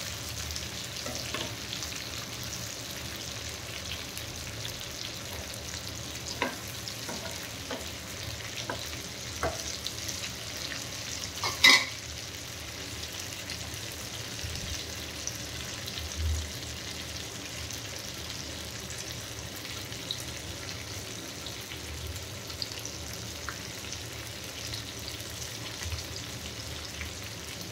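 Whole tinda (round gourd), onions and green chillies sizzling in mustard oil in a pan: a steady frying hiss with scattered small crackles. There is one sharp loud click about twelve seconds in.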